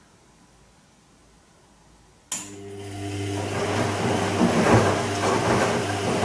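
Bosch Serie 2 Vario Perfect washing machine on its gentle Silk cycle starting up suddenly a little over two seconds in: a steady low motor hum with a swelling wash of water noise that builds for a couple of seconds, then stops about four seconds later.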